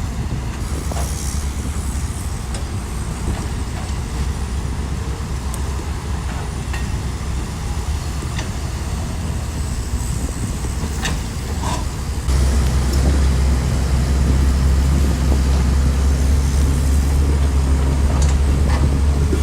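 Bulldozer's diesel engine running steadily with a few light clanks, then opening up about twelve seconds in and staying louder, as under heavier load or higher revs.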